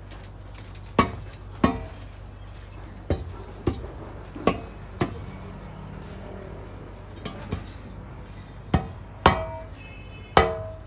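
Hammer striking steel, mostly in pairs of blows about half a second apart, each with a short metallic ring, over a steady low hum.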